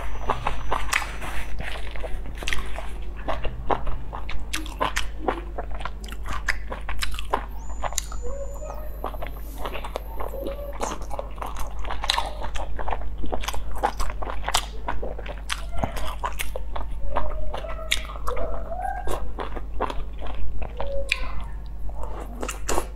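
Close-miked mouth sounds of someone eating soft steamed dumplings: biting and chewing with many wet, irregular clicks. A steady low hum runs underneath.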